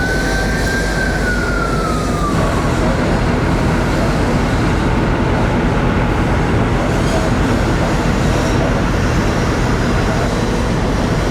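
An emergency siren sweeps high and then winds down, dying out about two seconds in, over the steady low drone of fire apparatus engines running at the fire scene.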